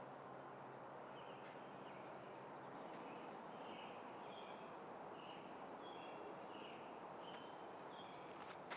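Quiet outdoor ambience with a small bird chirping short repeated notes over a steady faint background hiss.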